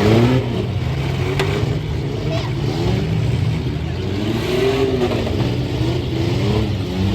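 Racing trucks' engines revving up and falling back again and again, their pitch swelling and sinking every second or so over a steady low drone.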